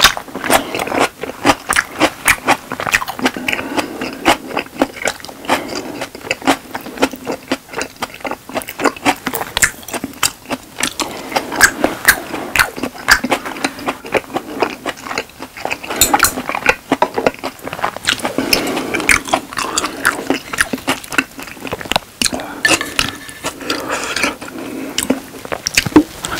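Person chewing steak with the mouth close to a clip-on microphone: a dense, continuous run of mouth clicks and smacks, several a second.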